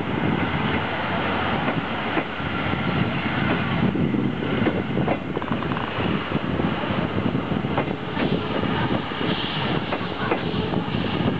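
Coal-fired steam train running along the line: a continuous rumble with sharp clacks of the wheels over the rails scattered through it.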